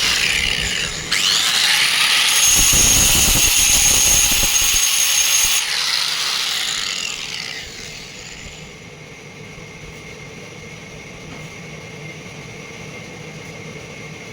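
Sawmill saw cutting for about seven seconds, a loud, rough noise with a high whine in the middle of the cut. It fades away about seven to eight seconds in, leaving a steady machine hum.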